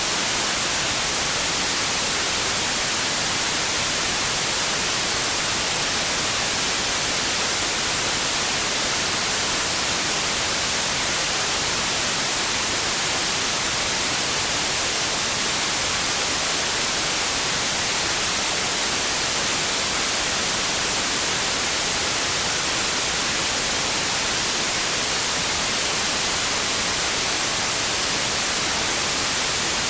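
Steady white noise: an even hiss, strongest in the treble, that never changes.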